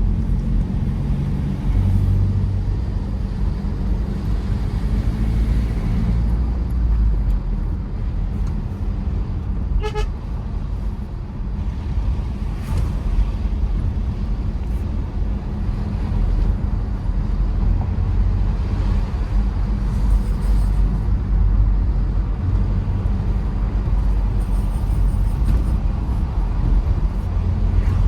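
Tata Safari Storme's diesel engine and tyres giving a steady low rumble while driving. About ten seconds in there is one short vehicle horn toot.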